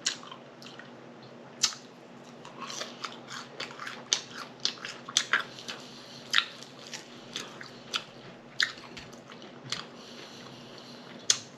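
Crispy fried chicken wing skin being bitten and chewed close to the microphone: irregular sharp crunches, a few every second, with quieter wet chewing between.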